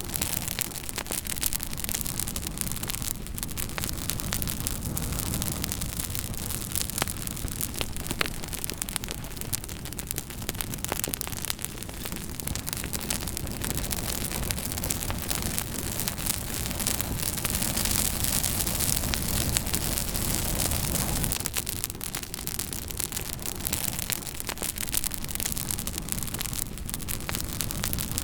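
Campfire burning, with dense irregular crackling and sharp pops over a steady low rush that swells a little partway through.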